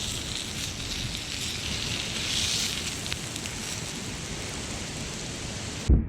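Wood campfire crackling and hissing steadily, with a few faint pops; a dull thump near the end.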